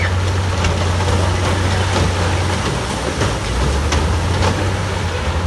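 Heavy diesel earthmoving machinery running steadily with a deep engine drone, its pitch dipping briefly around the middle, with a few light clicks and knocks over it.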